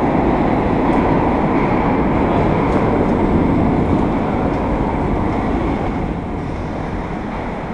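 New York City subway train running through the station: a steady rumble of wheels on rail with a few faint clicks, slowly growing quieter near the end.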